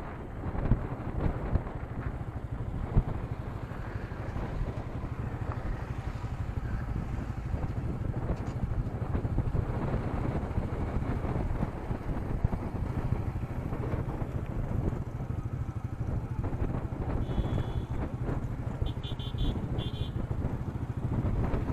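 Royal Enfield Meteor 350's single-cylinder engine running steadily while riding on the road, heard through an action camera's built-in microphone with wind and road noise. A few short high beeps sound near the end.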